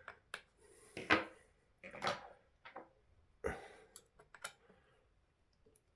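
Hand tools and small plastic and metal RC car parts being handled on a workbench: a string of separate knocks and clicks as things are picked up and set down, the loudest about a second in.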